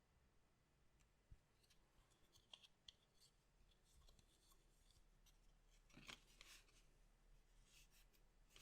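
Faint, scattered clicks and short rustles of collectible card packs and cards being handled, with a slightly louder rustle about six seconds in.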